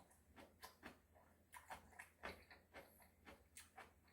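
Faint close-miked chewing and mouth sounds: a run of short, soft clicks, several a second, as food is chewed.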